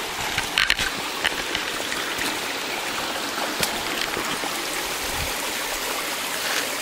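Steady rushing of a mountain creek running over rocks, with a few faint clicks in the first second or so.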